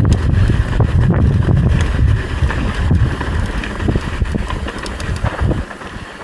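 Wind buffeting the microphone of a camera on a moving mountain bike, with rattles and knocks from the bike over rough trail. It eases off about five and a half seconds in.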